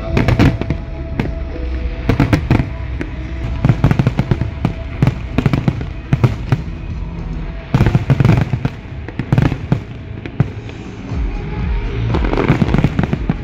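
Aerial fireworks display: shell bursts banging in rapid succession, heaviest about eight seconds in, easing briefly, then a spell of dense crackling near the end.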